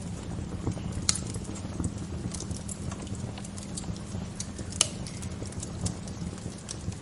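Wood fire crackling: a steady low rumble of the burning fire with scattered small crackles, and two sharper pops, one about a second in and a louder one near five seconds.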